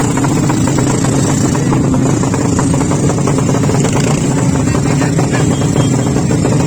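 200cc motorcycle engine idling steadily, its pitch level with no revving.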